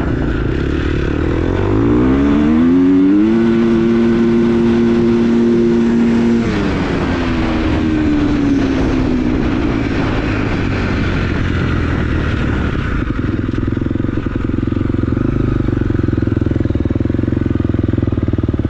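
Four-stroke dirt bike engine pulling wide open in gear: its pitch climbs for a couple of seconds, holds high for about three seconds, then falls away as the throttle is backed off. After that it runs on steadily at lower revs.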